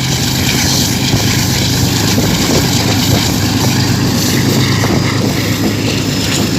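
A train running at speed behind a GEU-20 (GE U20C) diesel-electric locomotive: a steady low engine drone over continuous running noise, with a few faint clicks.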